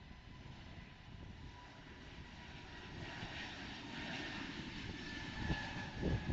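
Airliner engines at takeoff power, a roar that grows steadily louder as the plane accelerates down the runway, with a thin steady whine over it.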